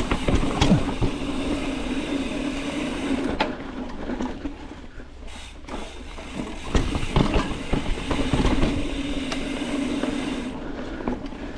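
Mountain bike riding down a rough dirt trail: tyres rolling, with frequent knocks and rattles over bumps and roots. A steady buzz comes and goes in two stretches.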